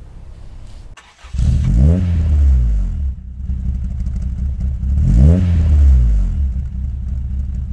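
Car engine idling with a low rumble and revved twice, its pitch rising and falling each time, once about two seconds in and again about five seconds in.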